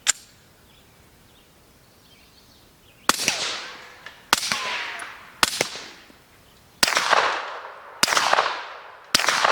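A sharp click right at the start, then six shots about a second apart from a 9mm Springfield XD-M Elite pistol fitted with a SilencerCo suppressor: three subsonic rounds followed by three supersonic rounds, each shot trailing off in a fading echo.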